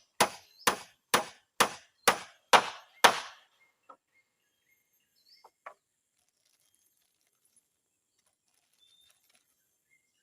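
Hammer driving nails into wooden floor planks: a run of quick, even strikes about two a second that stops about three seconds in, followed by a few light taps.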